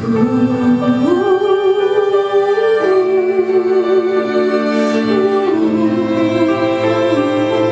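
Piano and string quartet playing a slow passage, with a held melody line that wavers with vibrato over sustained lower notes.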